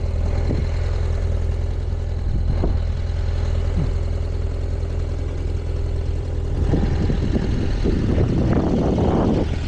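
Motorcycle engine running steadily with a low hum. About two-thirds of the way through, a louder, rougher rush of noise builds over it.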